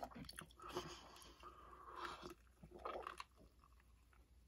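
Faint, close-miked chewing of a fried chicken sandwich: soft wet mouth sounds with small crunches and clicks, dying away to almost nothing in the last second or so.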